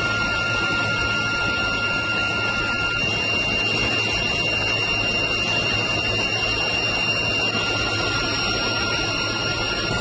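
Military helicopter cabin noise: the engines and rotor run loud and steady, with steady high-pitched whining tones over a constant low hum.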